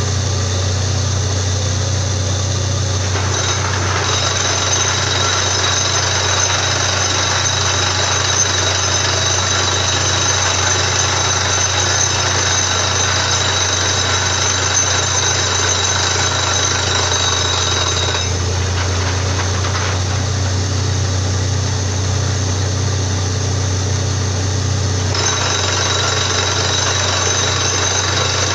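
Borewell drilling rig running: a steady engine drone with a harsh rattling hammering over it. The hammering grows louder about three seconds in, eases off about two-thirds of the way through, and picks up again near the end.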